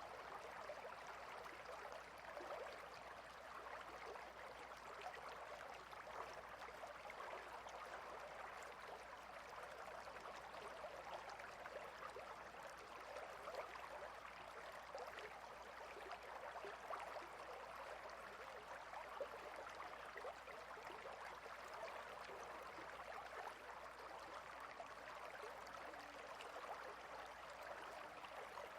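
A clear stream flowing over rocks, a faint steady rush and babble of water.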